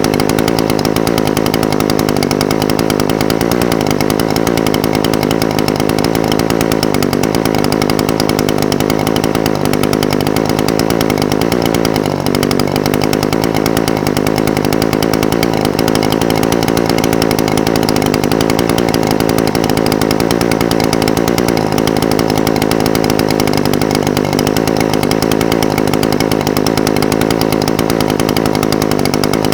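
Echo SRM-420TES brush cutter's two-stroke engine idling steadily, its pitch wavering slightly every few seconds.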